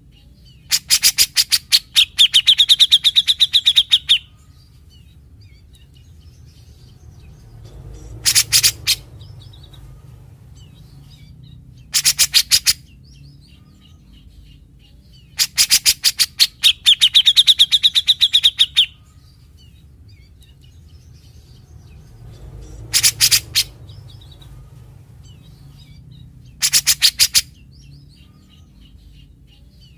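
Grey-cheeked bulbul (cucak jenggot) giving repeated bursts of harsh, rapid rattling calls, its typical 'besetan'. Six bursts come a few seconds apart, and the two longest carry a drawn-out whistled note.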